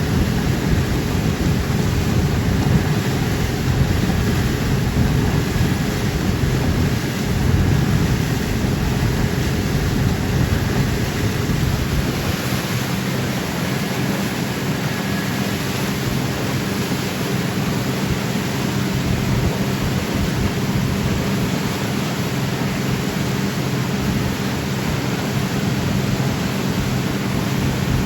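Tour boat's engine running steadily under heavy wind rush on the microphone, the low wind rumble easing about halfway through.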